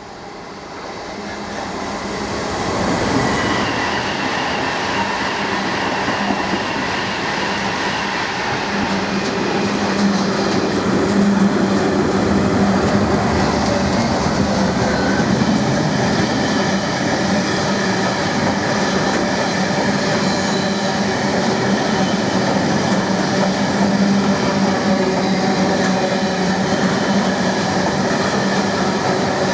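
Freight train approaching fast, growing louder over the first three seconds, then its wagons passing at speed for the rest of the time: a steady loud rumble and rattle of wheels on rail, with a thin steady whine above it.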